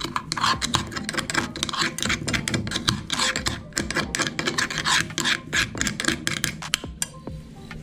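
Meat grinder crunching through frozen ice cream: a rapid, irregular stream of scraping clicks that thins out near the end.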